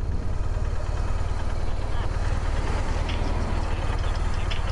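Motorcycle riding at highway speed: wind buffeting the helmet-mounted microphone mixed with engine and road noise, a steady low rumble.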